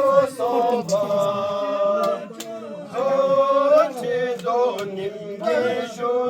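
Men chanting together, holding long drawn-out notes with short breaks between phrases.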